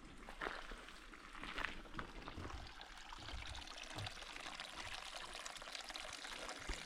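Faint outdoor ambience: a steady hiss like trickling water, with scattered light ticks and a few soft low thumps.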